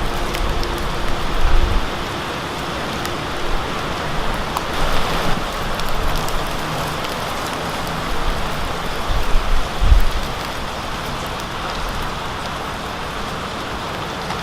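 Steady rain falling, an even hiss of drops, with a couple of brief low bumps near the start and about two-thirds of the way through.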